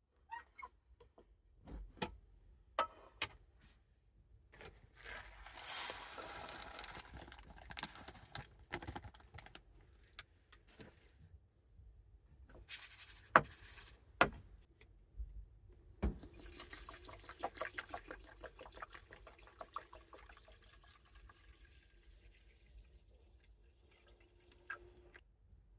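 Water running or being poured in three spells, with scattered clicks and knocks of things being handled.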